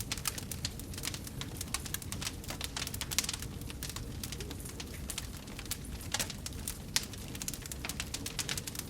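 Wood fire burning in a fireplace: steady low rumble of the flames with irregular crackles and pops several times a second, a few sharper pops standing out.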